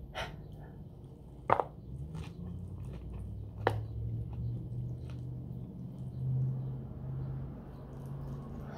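Biting into and chewing a large fresh spring roll wrapped in rice paper and filled with raw vegetables, with a few sharp crunches and wet chewing, over a low steady hum.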